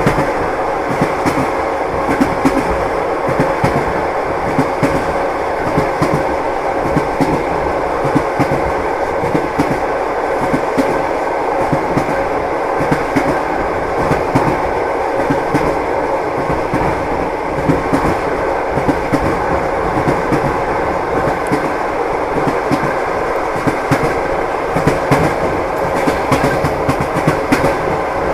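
Train wheels clattering over the rails, with frequent irregular clicks over a steady rolling rumble and a faint steady hum.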